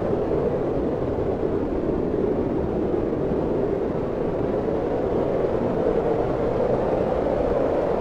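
Steady wind noise: an even, deep rushing with no gusts or breaks.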